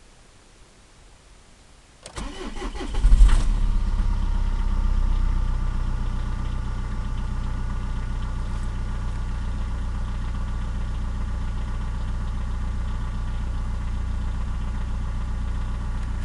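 Volvo V40 1.9D four-cylinder turbodiesel cold-started: the starter cranks briefly about two seconds in and the engine catches with a loud burst. The engine then settles from a raised cold idle into a steady diesel idle.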